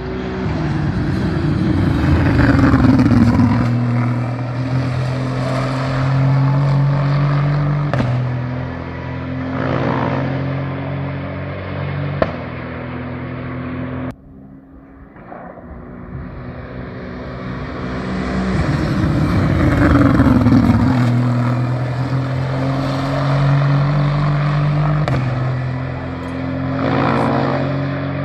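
GT race cars passing at speed: engine notes drop in pitch as each car goes by, then hold and step with gear changes. The sound cuts off abruptly about halfway, and a very similar pass follows.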